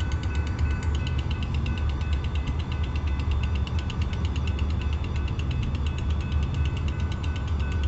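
Railroad grade-crossing bell ringing continuously in rapid, even strokes, the signal that the crossing is blocked by the train. A steady low rumble runs underneath.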